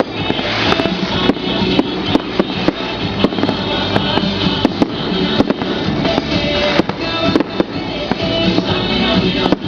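Fireworks cracking and popping in quick irregular succession, several bangs a second, over music playing.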